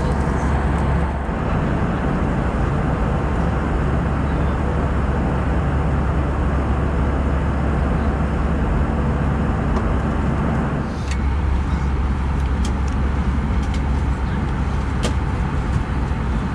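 Steady cabin noise of an Airbus A320 in flight: the even rush of airflow and engines. About eleven seconds in the tone shifts slightly and a few light clicks follow.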